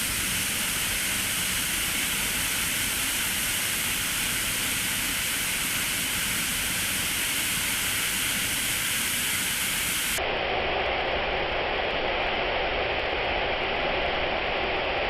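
Manai Falls waterfall, a steady rush of falling water. About ten seconds in, the sound changes abruptly to a duller, lower rush with less hiss.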